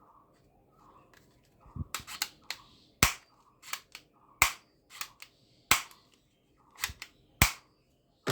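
Toy guns firing or being worked: a string of sharp snaps at uneven intervals, roughly one a second, a few in quick doubles.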